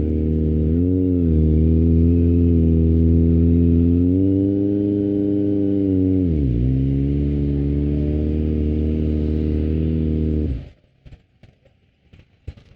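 Kawasaki ZX25R's 250cc inline-four idling through an Akrapovic exhaust, its pitch lifting slightly twice and dipping once, then stopping abruptly a couple of seconds before the end. A few faint clicks follow.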